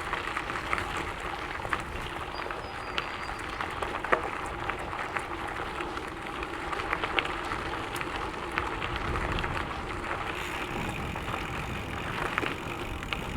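Gravel bike tyres rolling over a sandy, gravelly fire trail: a steady crunching rush dotted with small clicks and ticks from stones and grit.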